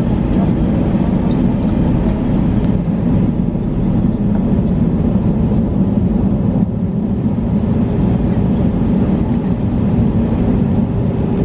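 Cabin noise of an Airbus A321-200 on the ground before takeoff: a steady low rumble, with a faint steady hum joining about seven seconds in.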